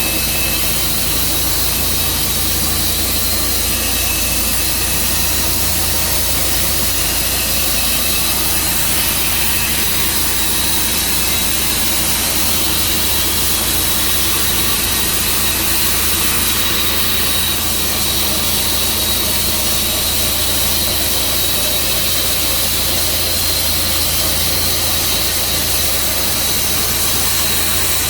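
Sawmill engine running steadily, with a constant high whine and hiss over a low rumble.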